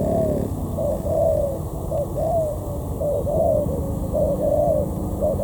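Spotted dove cooing, a run of low hooting phrases that each rise and fall, repeated about once a second, over a steady low rumble.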